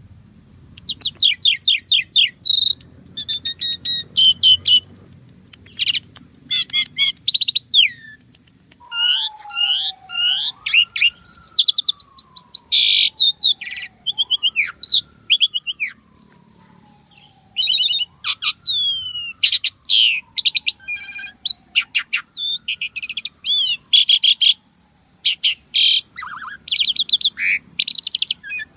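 Asian pied starling (jalak suren) singing nonstop: fast chattering, clicks and varied whistled notes, with a long, slowly falling whistle repeated about four times through the middle.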